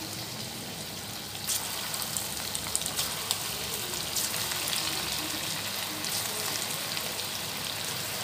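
Marinated chicken 65 pieces deep-frying in hot oil, a steady sizzle with many small crackles. The sizzle grows louder about a second and a half in as more pieces are slipped into the oil.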